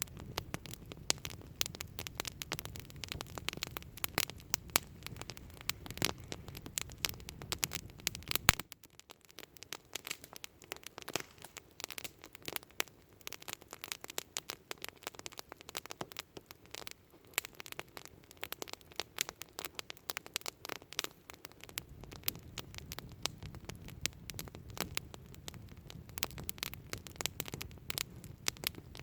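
Wood campfire crackling, with frequent sharp pops and snaps. A low rumble under it drops away about a third of the way in and comes back about three-quarters of the way through.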